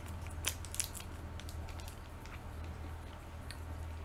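A person chewing a bite of spicy cheese close to the microphone: soft wet mouth clicks, bunched in the first second and sparser after, over a steady low hum.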